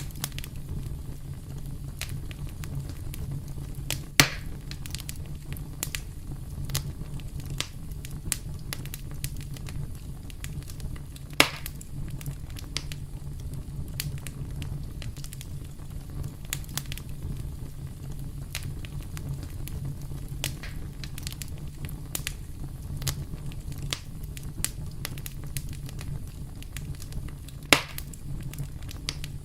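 Campfire burning with a steady low rumble and frequent small crackles, with three louder pops spread through.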